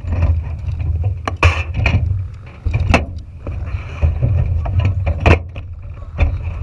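Junior dragster's single-cylinder engine running with a heavy low rumble that starts suddenly, with several sharp knocks and cracks through it.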